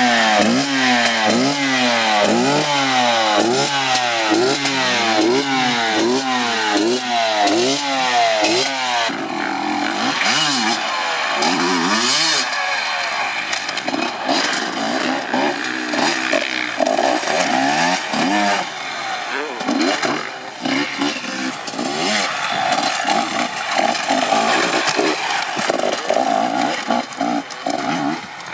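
Dirt bike engine revved in quick, even blips, about three every two seconds, for the first nine seconds or so. After that its revs rise and fall irregularly as the bike is ridden over rough obstacles.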